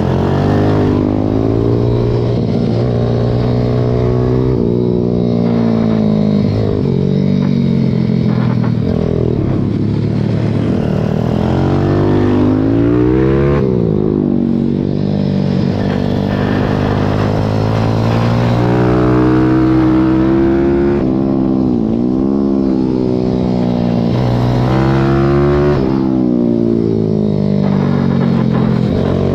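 Racing pit bike's single-cylinder engine heard close up from on board, revving hard and repeatedly falling in pitch then climbing again as the rider brakes into corners and accelerates out of them.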